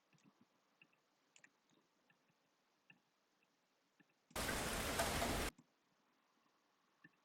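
A rain recording plays back for about a second, starting and cutting off abruptly as it is previewed in an editing timeline. Faint computer mouse clicks come before and after it.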